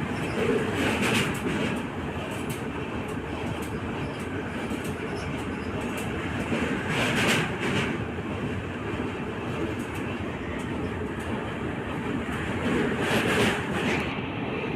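Passenger train running along the track: a steady rumble and rattle of wheels on rails, swelling louder about every six seconds.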